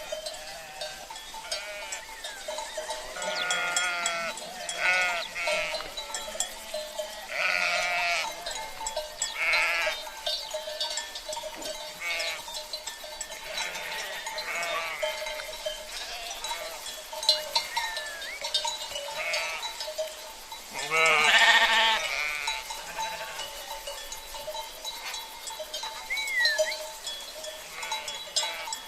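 A flock of sheep bleating again and again over steadily ringing cowbells. The loudest, longest bleat comes about 21 seconds in.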